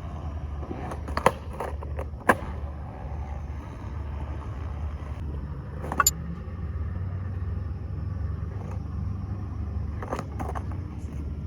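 Steady low rumble with four sharp knocks or clacks spread through it.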